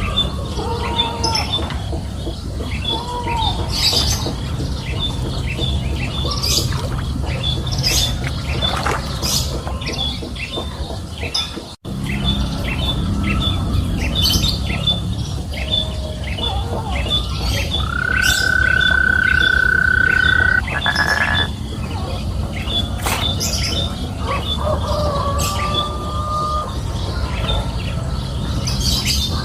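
Birds chirping and squawking outdoors, with a fast, regular run of short high chirps throughout and a few longer calls. The sound cuts out briefly for an instant a little before the middle.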